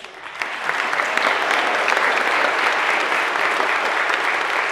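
Audience applauding, many hands clapping steadily. It swells up within the first half second and keeps going.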